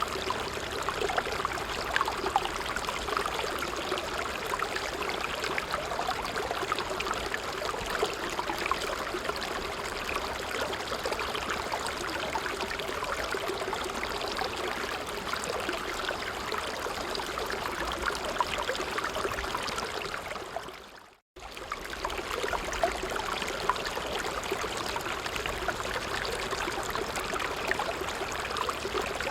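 A stream babbling and trickling over rocks in a steady rush of water. About 21 seconds in, the sound fades out to brief silence and cuts straight back in: a loop seam in the recording.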